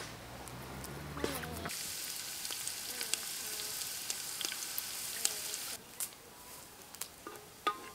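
Diced carrots sizzling in hot oil in a pot, a dense hiss with scattered crackling pops. It starts about two seconds in and cuts off abruptly about six seconds in.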